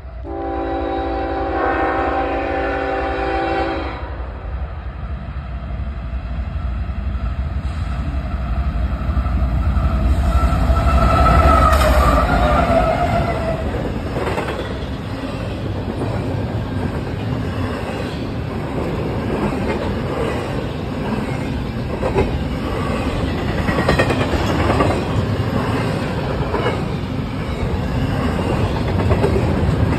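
Diesel freight train at close range. Its air horn sounds one long blast of several steady tones lasting about three and a half seconds. The locomotive then rumbles past, loudest and with its note falling about twelve seconds in, followed by double-stack container cars rolling by with a steady rumble and regular clacks of wheels over the rail joints.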